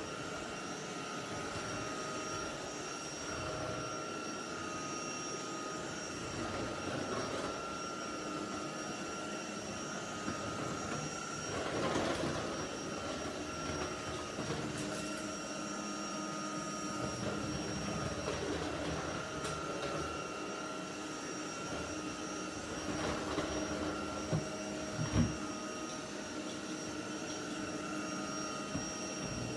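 UNINELL UV3 cordless stick vacuum running steadily with a high whine, with a brief surge about twelve seconds in and a few light knocks near the end.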